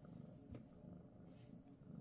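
Domestic cat purring, a faint low rumble with a pulsing rhythm, with a light click about halfway through.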